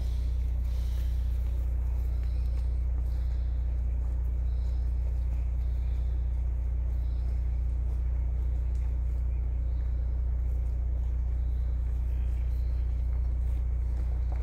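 Vehicle engine idling: a steady low hum, heard from inside the car.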